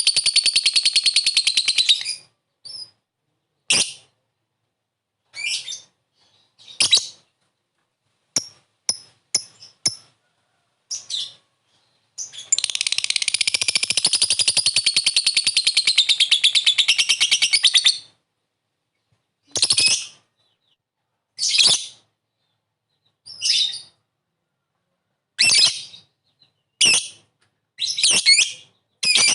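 Lovebird calling: long, rapid chattering trills (ngekek), one at the start lasting about two seconds and another from about twelve seconds in lasting some five seconds. Between and after them come short, high single calls (ngetik).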